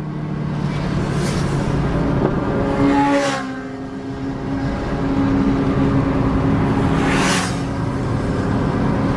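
Audi S3's turbocharged four-cylinder engine heard from inside the cabin at highway speed. Its note climbs under acceleration, then drops at a gear change about three seconds in, with a short whoosh, and holds steady after that. Another whoosh comes near the end.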